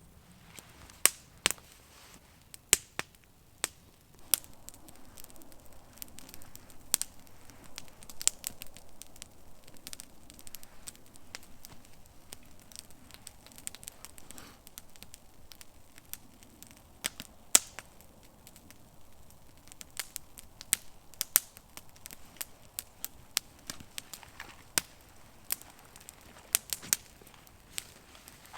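Campfire crackling, with many sharp, irregular pops and snaps from burning wood over a faint, steady hiss.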